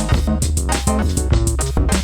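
Electronic music: a steady drum-machine beat over a deep bass line, the uploader's own track made on a Roland TB-303 bass synthesizer.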